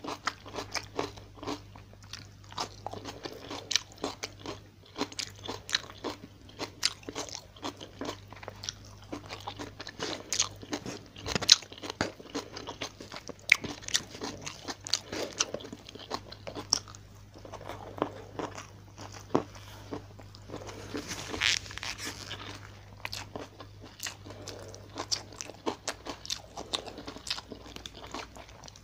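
Close-miked eating of fried tilapia with sambal and rice, eaten by hand: chewing and crunching, with a dense run of sharp crunches and mouth clicks and a brief louder crunchy patch a little past the middle.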